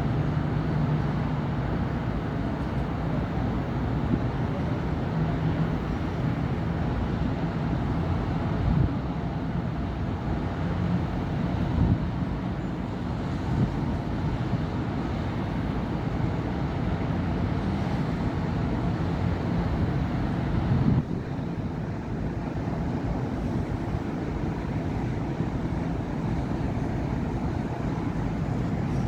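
Steady city-avenue road traffic: vehicle engines and tyre noise running past in a continuous low rumble. A louder swell about twenty seconds in is followed by a slightly quieter stretch.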